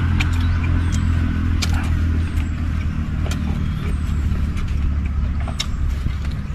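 A steady low engine-like hum, with sharp clicks every second or so and faint high chirps.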